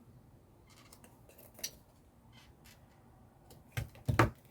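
Scissors cutting paper or card to angle its corners: faint handling ticks, then two sharp snips near the end, the second louder.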